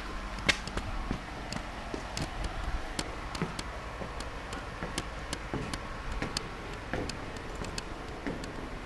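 Scattered light clicks and knocks, irregular and a few a second, over a steady low rumble.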